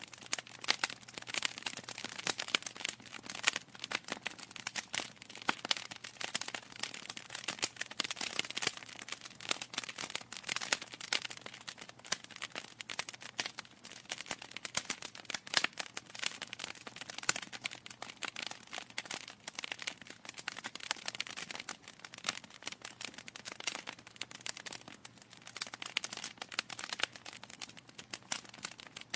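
Wood fire burning in a fireplace, crackling with dense, irregular snaps and pops over a faint steady hiss.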